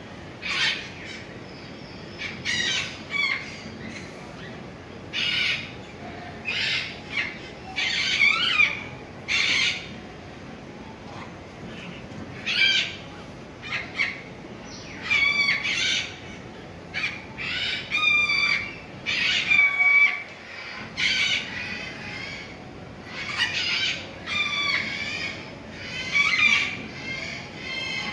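Birds calling in short, harsh squawks, one after another about every second, some calls bending up and down in pitch.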